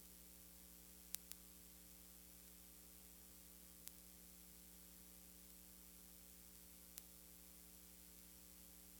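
Near silence: a steady low electrical hum under faint hiss, with a few brief faint clicks, two close together about a second in, then one near four seconds and one near seven.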